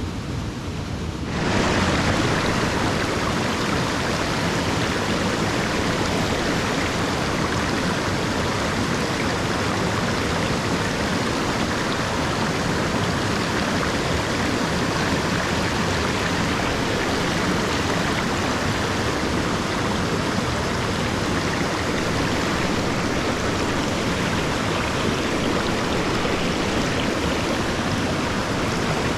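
Small moorland stream running and splashing over rocks, a steady rush of water that grows louder and brighter about a second and a half in.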